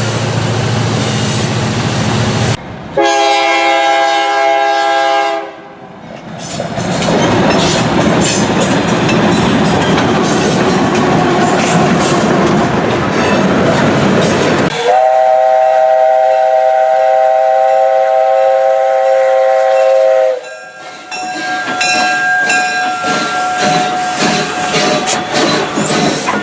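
Train horn chord sounded in two long blasts, the first about two and a half seconds and the second about five seconds, with the noise of a passing train and wheels clicking over rail joints between and after them. The sound changes abruptly at each cut.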